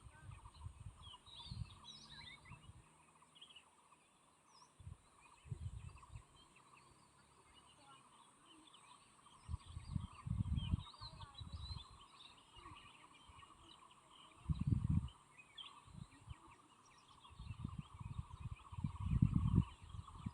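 Many small birds chirping and calling in short, scattered notes, while gusts of wind buffet the microphone in low rumbles every few seconds. A steady faint high hum runs underneath.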